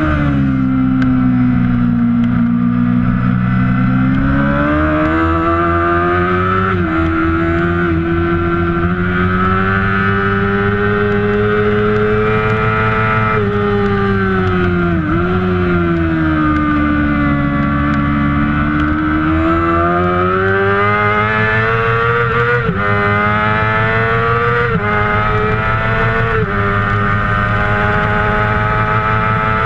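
Kawasaki 600cc racing motorcycle engine at high revs, rising steadily in pitch and dropping sharply at each gear change. Near the middle the revs fall briefly and climb again as it slows and picks up through a corner.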